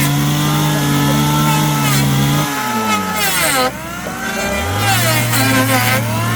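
A power tool's motor running under load: its pitch drops and sags as it bites into the wood about halfway through, then it picks up again to a steady speed.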